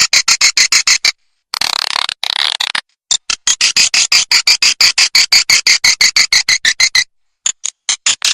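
Recorded swiftlet calls played as a lure: fast trains of sharp, high chirping clicks, about ten a second. The trains break off briefly about a second in and again near the end.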